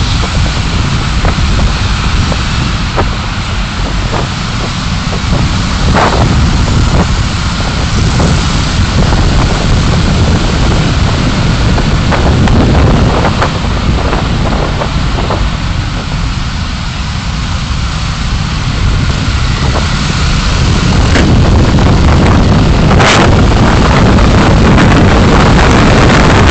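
Car driving, its road and wind noise a loud, steady low rumble with a few short knocks scattered through, growing louder about three-quarters of the way in.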